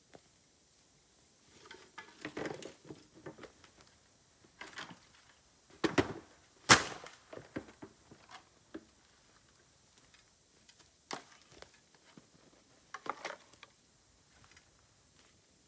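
Bamboo burning in an open fire: irregular crackles and snaps, with one loud sharp crack about seven seconds in.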